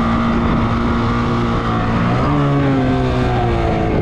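Motorcycle engine running at steady revs, then revved up about two seconds in and easing off slowly.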